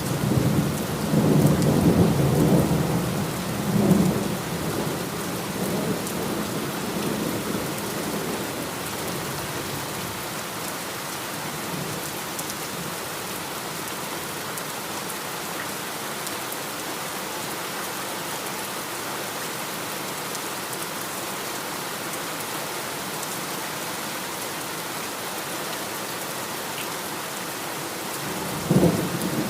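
Heavy rain falling steadily in a thunderstorm. Thunder rumbles and dies away over the first several seconds, and a new thunderclap breaks near the end.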